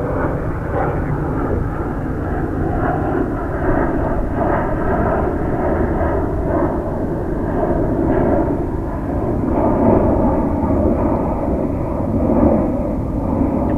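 Jet airliner engines running at an airport, a steady loud jet noise with a slight swell around the middle.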